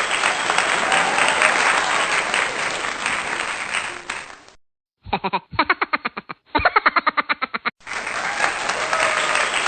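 Crowd applause. About halfway through it cuts off and gives way to roughly three seconds of a fast, rapidly repeated pulsing sound, then the applause returns.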